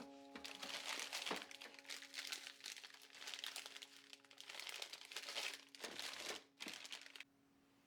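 Packaging being crinkled and crumpled by hand: a dense run of crackling that stops abruptly about seven seconds in.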